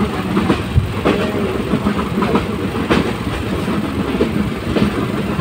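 Passenger train running along the track: a steady rumble with irregular sharp clacks of the wheels over the rails.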